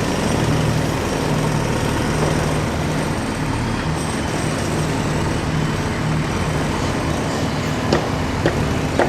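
Diesel engine of heavy earth-moving machinery running steadily with a low pulsing drone, and a few short knocks near the end.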